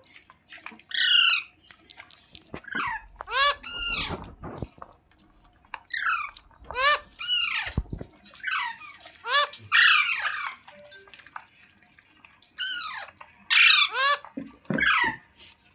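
Ringneck parrot giving a run of short, shrill squawking calls, each sweeping in pitch, repeated roughly once a second in small clusters, with a few low thuds in between.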